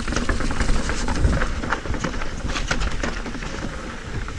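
Mountain bike rattling and clicking over rough trail ground, many irregular clicks over a steady low rumble.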